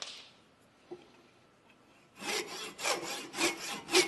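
Small Japanese hand saw cutting through a wooden spigot on a maple ball: a pause of about two seconds, then a run of rasping saw strokes, about two a second.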